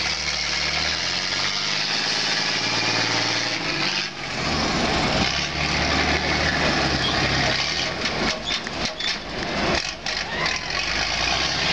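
Heavy truck engine running under load, its pitch changing over the first few seconds. It dips briefly about four seconds in, then picks up again with a dense, steady sound.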